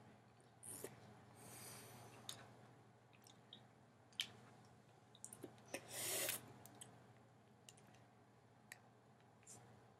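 Quiet eating of canned peaches: scattered small clicks of a fork against the jar and soft chewing, with a brief hissing rush about six seconds in, the loudest sound.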